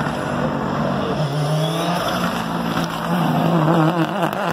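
Rally car engine at high revs as the car approaches and passes. The revs climb about a second in, then waver near the end.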